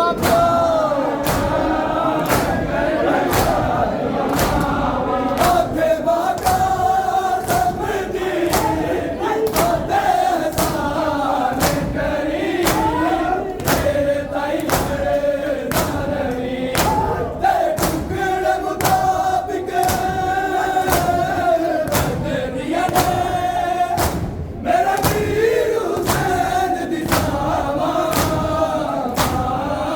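A group of male mourners chanting a nauha in unison, with loud rhythmic chest-beating (matam) striking about one and a half to two times a second.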